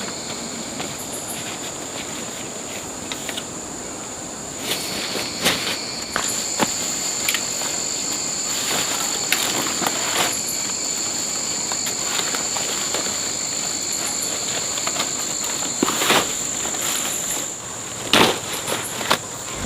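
Insects droning steadily at a high pitch in two tones, with scattered short rustles and snaps over it.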